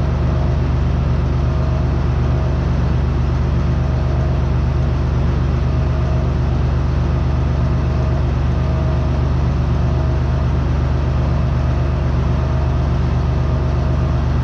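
Farm tractor's diesel engine running steadily, a constant low drone with an even firing pulse.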